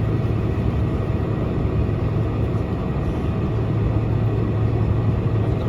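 Boeing 747-400 cabin noise heard from inside the economy cabin while taxiing: the engines and cabin air make a steady rumble with a constant low hum.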